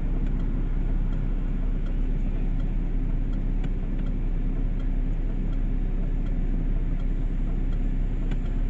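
Steady low vehicle rumble, with a faint steady hum and a few faint ticks.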